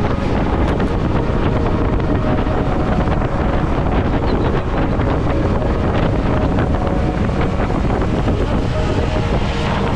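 Wind rushing over an action camera's microphone on a moving motorcycle, with the motorcycle's engine running steadily underneath.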